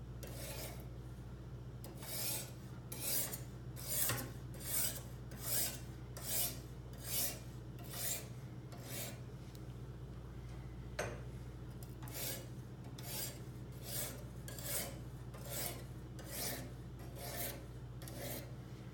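Coarse diamond stone of a Kazak UBR guided sharpener drawn in upward strokes along a large kitchen knife's edge to raise a burr: a rasping scrape repeated a little more than once a second. The strokes pause briefly about halfway, with a single click, then resume.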